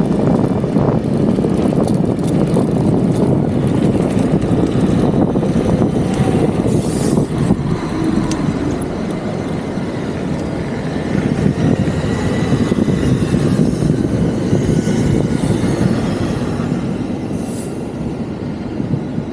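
Steady rushing ride noise from an e-bike under way, mostly wind and road noise with no clear events.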